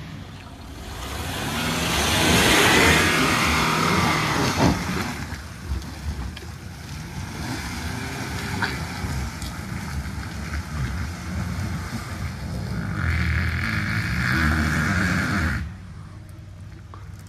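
4x4 SUV engine revving under load as it climbs a muddy, rutted trail. It is loudest in the first few seconds, with a single knock about five seconds in, and surges again near the end before the revs drop off suddenly.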